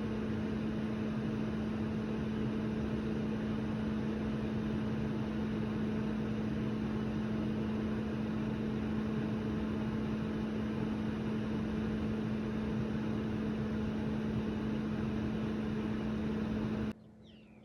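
Hushpuppies deep-frying in peanut oil, a steady sizzling hiss with a steady low hum under it. It stops abruptly about a second before the end.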